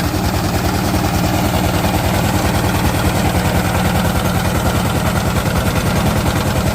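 Sifang power tiller diesel engine running steadily with a rapid, even knocking beat.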